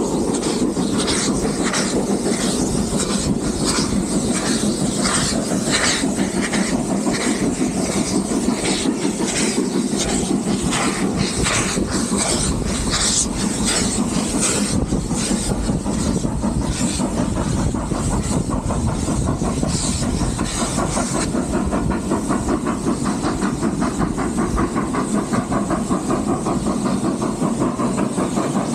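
Steam train running along the line: a steady rumble and hiss, with a regular beat of sharp strokes that dies away about two-thirds of the way through.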